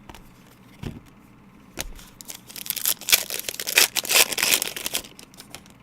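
A trading-card pack wrapper being torn open and crinkled: about three seconds of crackly tearing and crumpling, after a couple of light clicks.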